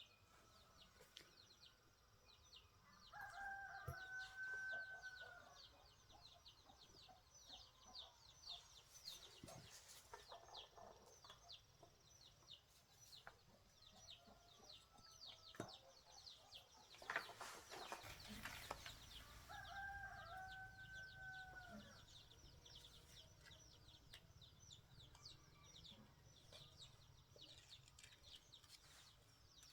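A rooster crowing faintly twice, once a few seconds in and again about two thirds of the way through, each call held then dropping at the end. Rapid, high chirping runs beneath it throughout.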